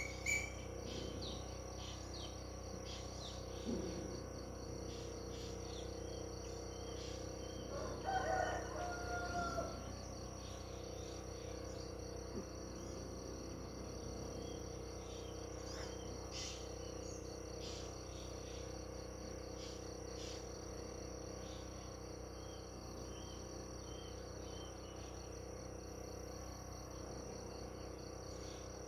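Countryside ambience: a steady high insect chirring throughout, with scattered faint bird chirps and one louder, slightly falling bird call about eight seconds in.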